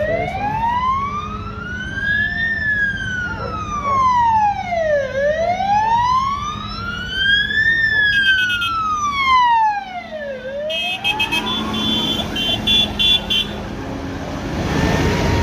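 Police siren wailing, gliding slowly up and down in pitch: two full rises and falls of about five seconds each, stopping about ten seconds in. Vehicle engines and road noise carry on after it.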